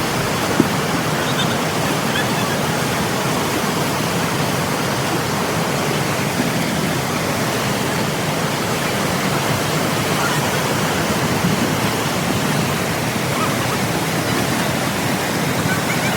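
Kalagala Falls on the Nile: a waterfall's water rushing steadily over the rocks in a constant roar.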